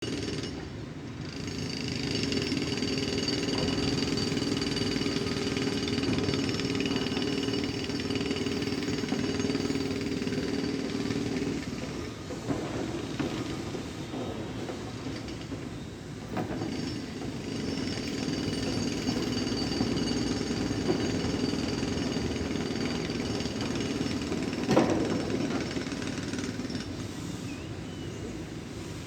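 Construction-site work: machinery running with a continuous rapid, rattling texture and a pitched drone that drops away about twelve seconds in and returns from about seventeen to twenty-three seconds. A single sharp knock near the end is the loudest moment.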